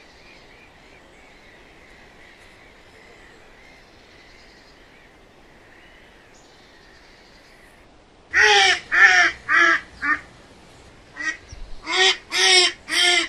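Faint bird chirping, then a duck quacking after about eight seconds: two runs of loud quacks, about two a second, with a short pause between them.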